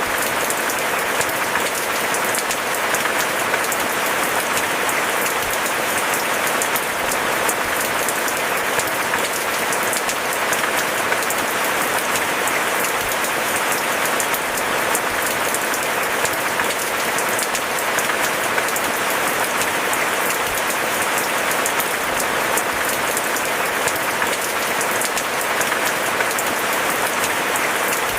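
Steady rain falling, a dense hiss of countless drops that stays even throughout.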